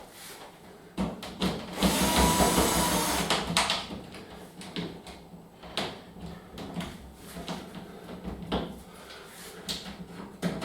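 Screws being taken out of a tumble dryer's top lid: a power screwdriver runs for under two seconds about two seconds in, among knocks and clicks of the screwdriver and panel being handled.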